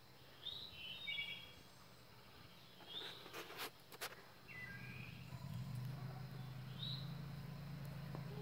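Birds chirping, short high calls every second or two, over a quiet outdoor background. A few sharp clicks come about three to four seconds in, and a low steady hum sets in about halfway.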